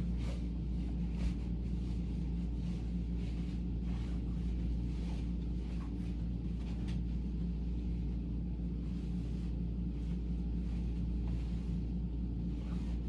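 A vacuum cleaner running steadily, a constant low hum, with faint rustling of bed linen being handled over it.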